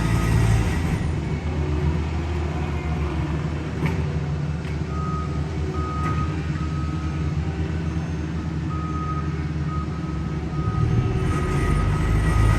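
A road-paving machine's heavy diesel engine running steadily, with a reversing alarm beeping at an even pace from about five seconds in until near the end.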